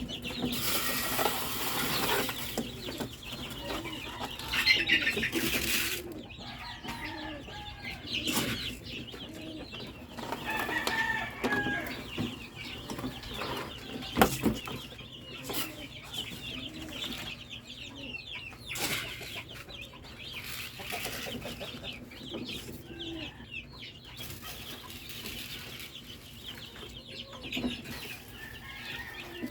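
Rhode Island Red chickens clucking, with wings flapping now and then, among several sharp knocks, the loudest about fourteen seconds in.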